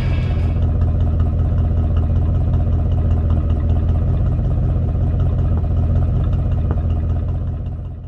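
A 1974 Chevrolet El Camino's engine running steadily with a deep, even rumble, fading out near the end.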